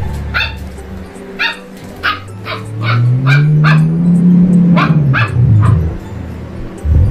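German Shepherd puppy barking in a run of about a dozen short, high yaps. A low tone rises and falls underneath from about three to six seconds in.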